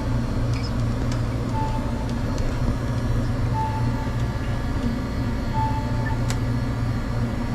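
A steady low machine hum with a short, high electronic beep repeating about every two seconds.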